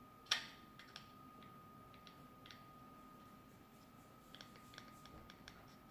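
Light clicks and taps from a plastic toy bank being handled and tapped during disassembly. One sharper click comes about a third of a second in, then scattered small ticks, over a faint steady high whine.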